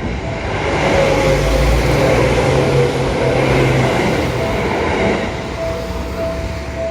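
A train passing over a level crossing. Its rumble and rushing wheel noise swell about a second in and ease off after about four seconds, while the crossing's warning bell keeps ringing in short, even, repeated beeps.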